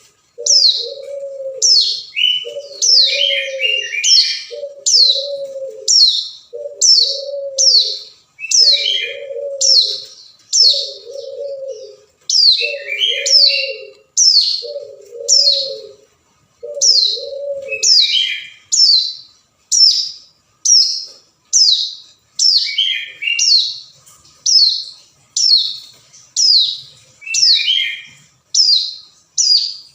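Hill prinia (ciblek gunung) calling: a long run of sharp, quickly falling high notes, about one or two a second, with short lower chattering bursts now and then, used as a lure call to draw rival birds. Under it, a lower repeated note sounds steadily until about two-thirds of the way through, then stops.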